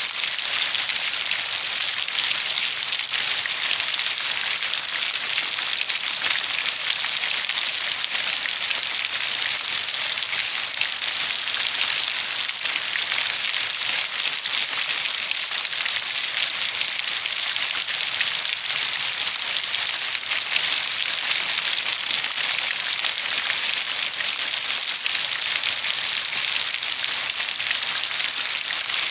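Steady heavy rain: a dense, even hiss of many fine drops.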